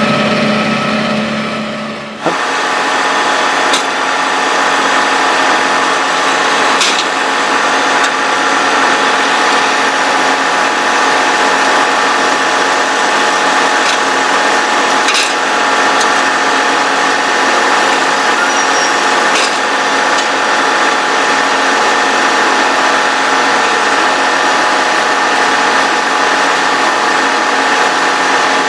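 A machine running steadily, a drone with a high whine over it and little bass, with a few sharp clicks. About two seconds in, a lower engine sound cuts off abruptly as this drone begins.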